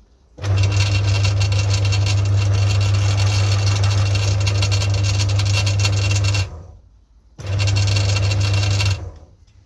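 Newly assembled Lidl bench pillar drill's electric motor switched on for its first run, with a steady low hum, for about six seconds. It is switched off and spins down, then run again for about a second and a half and stopped.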